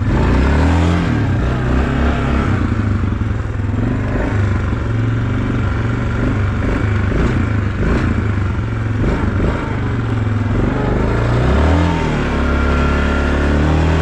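Small off-road vehicle engine revving up and down under throttle while riding, its pitch rising and falling. It settles into a steady note near the end.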